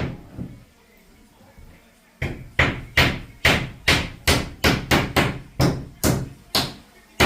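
Hammer driving nails into timber with steady, evenly paced blows, about two a second, starting about two seconds in.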